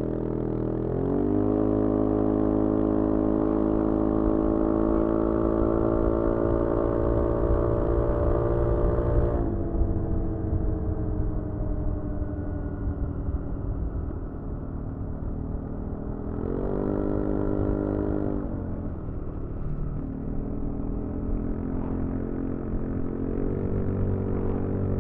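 SYM Joymax-Z 300 scooter's 278cc single-cylinder engine under full throttle: the revs climb in the first second or two and then hold nearly steady while the scooter gathers speed. About nine seconds in the revs drop off sharply. They briefly rise and fall again near seventeen seconds, then settle into a steady run.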